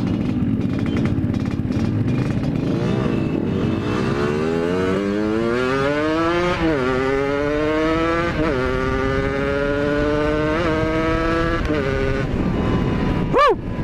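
Yamaha RX-King two-stroke motorcycle accelerating hard through the gears: the engine note climbs, drops at each upshift, about three times, then climbs again. A quick rev blip rises and falls near the end.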